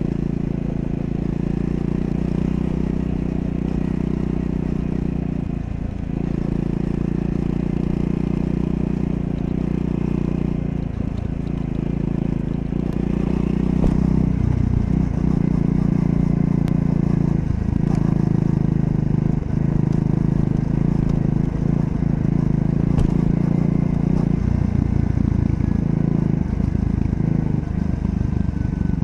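Triumph Scrambler 400 X's single-cylinder engine running steadily while riding. The revs briefly drop and pick up again several times, and the engine gets a little louder about halfway through.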